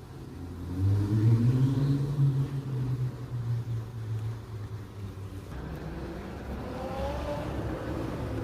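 Twin-turbo Lamborghini Huracán's V10 engine revving and pulling hard. The engine note swells about a second in and holds steady for several seconds, then drops in level and rises in pitch near the end as the car accelerates away.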